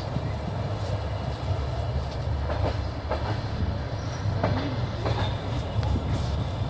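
Train wheels running on the track, a steady low rumble with occasional knocks as the wheels pass over rail joints.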